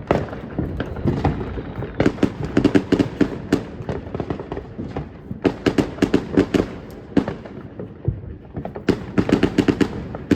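Small firecrackers going off in rapid clusters of sharp cracks and pops, three bursts of crackling a few seconds apart.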